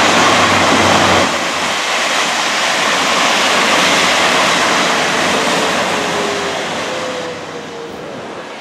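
Taiwan Railway DR3000 diesel multiple unit running past on the rails: a loud rolling rumble with a low engine drone that drops away about a second in, the noise slowly fading as the train pulls away near the end.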